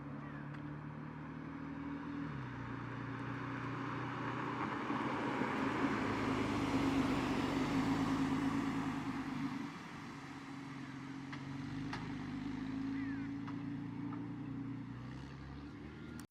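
Cars driving slowly past with steady engine notes. One grows louder to a peak about halfway through, then drops away, and another passes less loudly later on.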